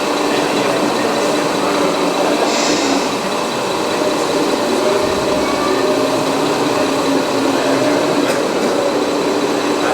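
Scale radio-controlled construction machines running: a steady mechanical whine of their motors, with a brief hiss about two and a half seconds in.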